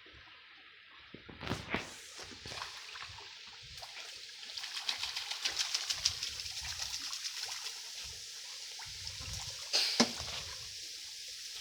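Water splashing and trickling. A dense patter of small splashes sets in about four seconds in, with a sharper splash near the end.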